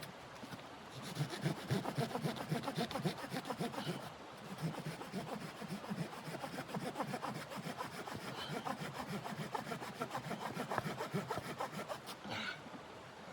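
Hand saw cutting through wood in quick, rhythmic rasping strokes, with a short pause about four seconds in.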